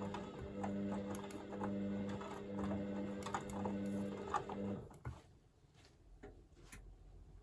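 Hoover VisionDynamic front-loading washing machine in its heat-to-40 °C wash stage: the drum motor hums steadily as the drum turns, with the wet load tumbling and clicking. The motor stops about five seconds in and the drum rests, leaving only a few faint clicks.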